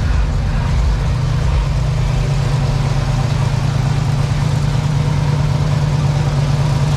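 A car engine idling steadily: an even, low hum that holds without revving.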